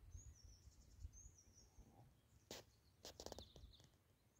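Near silence outdoors with faint bird chirps, a few high phrases in the first two seconds, and a few soft clicks later on.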